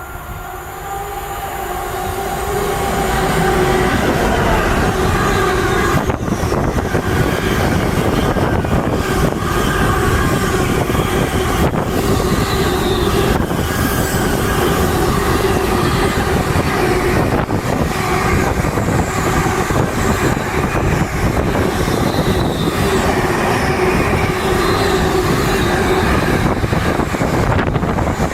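Train on the main-line tracks close by, growing louder over the first few seconds and then staying loud and steady, with rail and wheel noise, a few steady pitched tones and now and then a sharp click.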